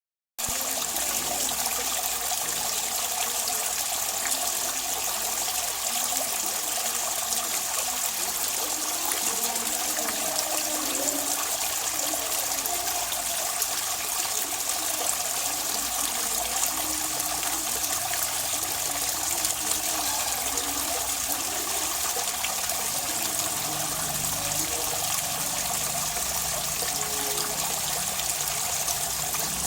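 Running water trickling and splashing steadily, like a small stream or fountain.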